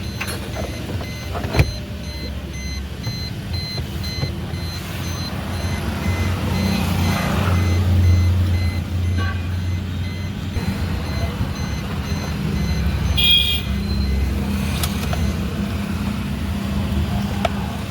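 A motor vehicle's engine running steadily as a low rumble that swells around the middle, with a few sharp clicks and a short beep about 13 seconds in.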